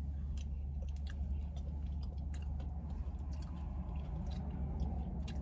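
A person chewing a spoonful of a KFC Famous Bowl, with small wet mouth clicks scattered through, over a steady low hum.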